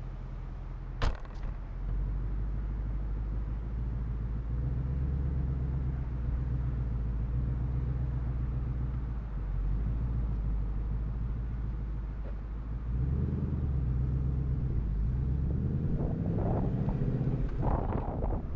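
2018 Ford Mustang GT's 5.0-litre V8 running at low revs as the car moves off. There is one sharp click about a second in. From about two-thirds of the way through, the engine note rises and falls as it accelerates, and it gets louder and rougher near the end.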